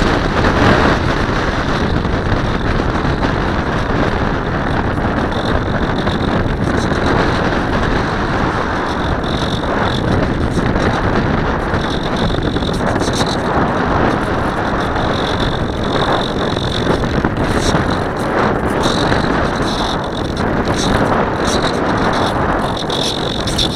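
Loud, steady rush of airflow buffeting a wing-mounted camera's microphone in flight, with gusts swelling and easing.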